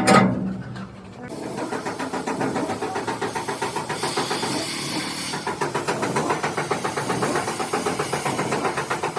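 A sharp clank, then an engine starts about a second in and runs with a steady, rapid pulsing of about seven beats a second.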